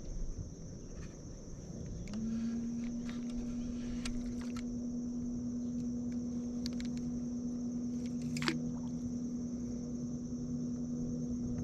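A steady, even low hum starts abruptly about two seconds in and holds at one pitch, over a constant high insect drone, with one sharp click a little past the middle.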